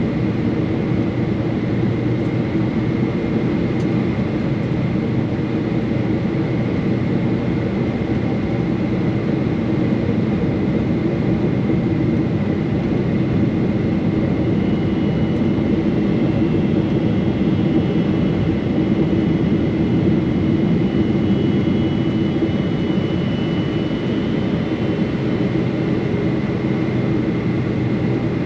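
Steady cabin noise inside a Boeing 777-300 with its engines running: a constant rush with a faint steady high whine, and a second, higher whine joining in the middle.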